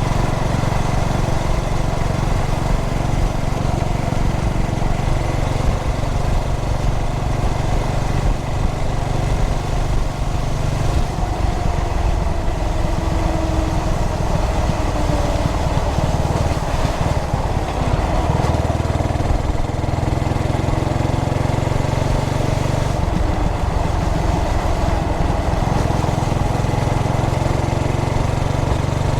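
2003 Yamaha SR400's air-cooled single-cylinder four-stroke engine running while riding, the note rising and falling a couple of times with changes in speed or gear.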